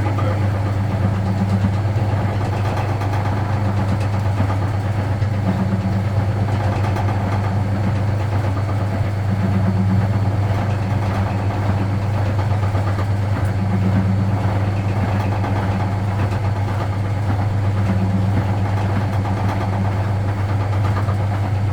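Vintage Frigidaire Super Deluxe Automatic 50 front-loading washing machine running mid-cycle: a steady hum from its induction motor, which swells slightly about every four seconds.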